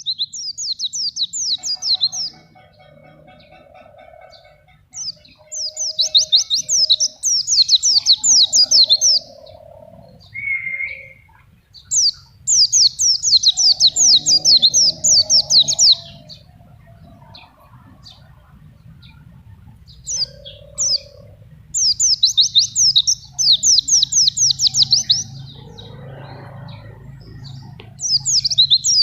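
A white-eye (pleci) singing in repeated bursts of rapid, high, quickly repeated notes, each burst lasting a few seconds with short pauses between them.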